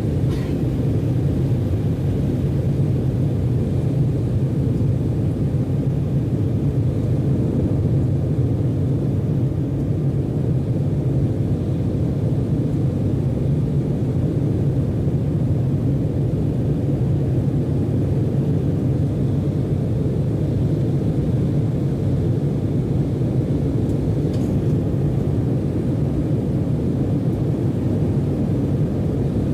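Embraer 190 jet airliner heard from inside the cabin: a steady low rumble of its turbofan engines that does not change.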